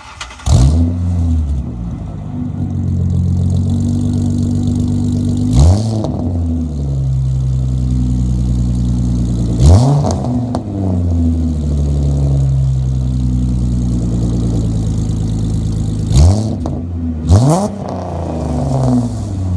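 2006 Ford Mustang's 4.0 L V6 through a Dynomax off-road X-pipe true-dual catback exhaust: it fires up at the start and settles into a steady idle. The throttle is blipped four times, each a quick rise and fall in pitch, the last two close together.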